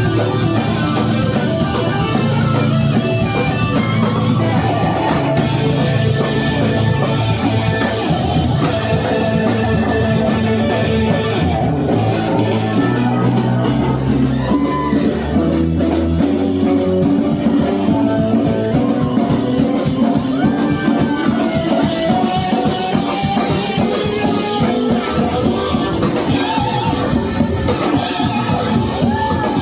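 Live rock band playing an instrumental passage, with electric guitar lines over drum kit and bass.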